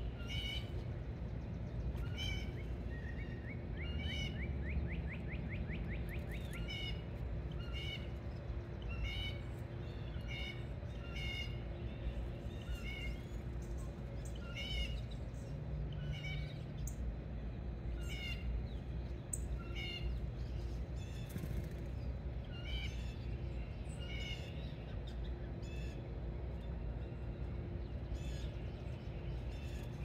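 Songbirds calling, short high chirps repeating about once a second with a few gaps, and a fast rising trill near the start. Under them is a steady low rumble with a faint hum.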